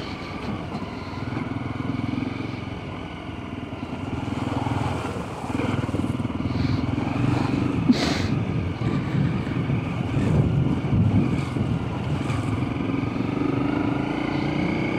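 Dual-sport motorcycle engine running under load on a gravel track, with short knocks and rattles from the ride and one sharp knock about eight seconds in; the engine pitch rises near the end.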